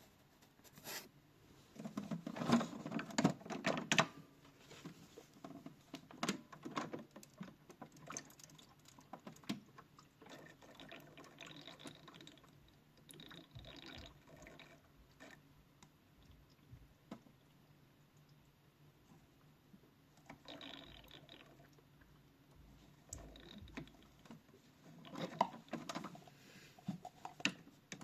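Toy washing machine running a wash cycle: a small motor turning the drum, with water sloshing and clicking in stop-start bursts and short pauses between.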